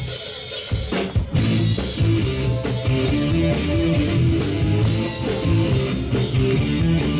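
Live rock band starting a song: drum kit, electric guitar and bass come in together about a second in and play on with a steady beat.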